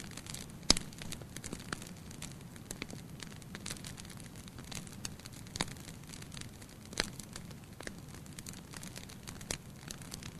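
Fire burning in a fireplace, crackling with irregular sharp pops over a low steady rumble; the loudest pop comes about a second in.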